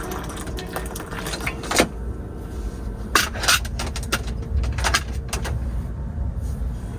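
A few light clicks and knocks of small objects being handled, about four over several seconds, over a steady low rumble.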